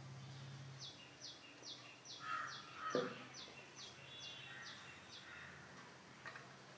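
A bird singing a regular series of about eleven short, high notes, each sliding downward, two to three a second. A single sharp knock about three seconds in is louder than the song.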